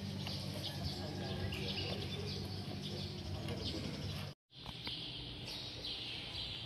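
Birds chirping over a steady low hum. The sound drops out for a moment about four seconds in, then the chirping carries on with the hum fainter.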